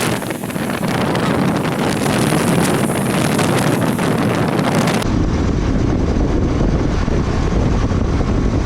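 Heavy wind rush on the microphone of a moving motorcycle. About five seconds in it changes abruptly to a deeper, duller rumble.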